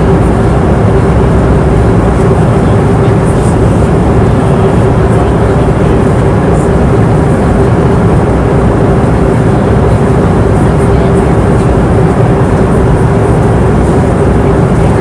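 Airliner cabin noise in flight: a steady, dense rush of engine and airflow noise, weighted to the low end, with a constant hum running through it.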